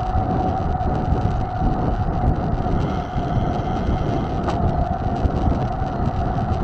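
Mountain bike being ridden: wind buffeting the microphone over a steady rumble, with a steady whine running through it and one sharp click about four and a half seconds in.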